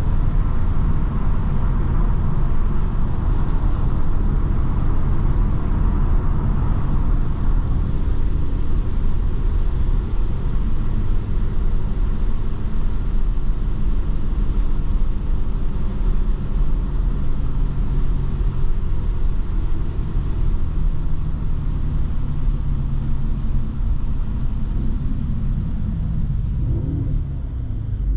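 Mercedes-AMG C43 engine and exhaust droning at a steady cruise over continuous road rumble. The engine note holds mostly steady and briefly rises and falls near the end.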